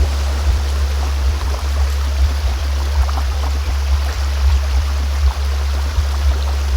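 A steady low-pitched tone, a "healing frequency" meant for neck and spine recovery, sounding continuously over a bed of flowing stream water with small trickles and splashes.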